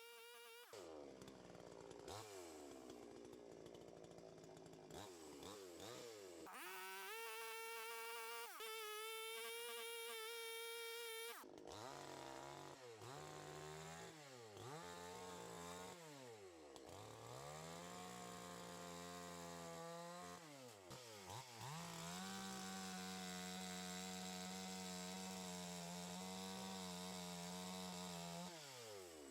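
Two-stroke chainsaw revving up and dropping back again and again, with two longer stretches held at high speed while it cuts into a big spruce log, the second running until near the end.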